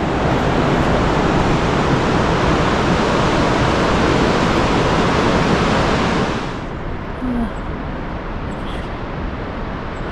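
Steady rushing of a fast mountain river, an even roar that drops in level and turns duller about six and a half seconds in.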